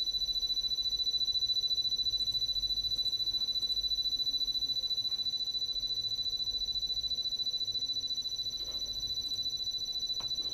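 A steady high-pitched electronic tone over a low hum, pulsing rapidly and evenly, with a few faint ticks.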